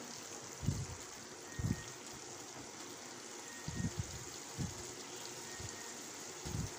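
Minced meat and potato cubes frying in oil in an aluminium pressure-cooker pan, a steady sizzling hiss. Every second or so there is a soft, low thump.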